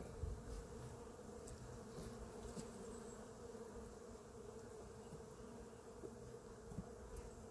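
Honeybees humming steadily around an open hive, a faint even drone with no break.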